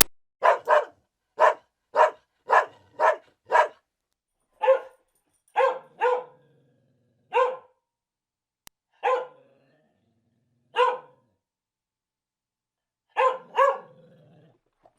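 A dog barking about fifteen times in short, separate barks, quickly in the first few seconds and then with longer pauses, sometimes two barks close together.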